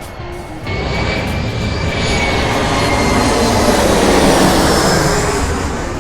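Jet airliner passing low overhead. The engine noise comes in abruptly just under a second in, swells to a peak around four seconds and then eases, with a thin high whine that slowly falls in pitch as it goes by.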